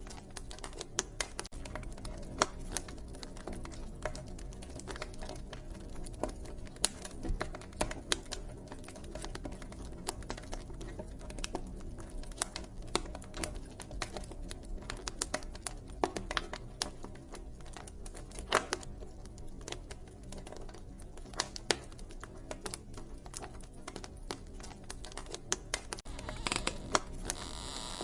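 Wood fire crackling, with irregular sharp pops and snaps over a steady low rumble, and a brief hiss near the end.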